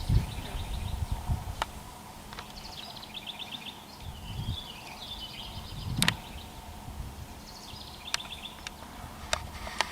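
Small birds singing short trilled phrases of quickly repeated notes, several times over, with a few sharp isolated clicks, the loudest about six seconds in. A low rumble sits under the first two seconds.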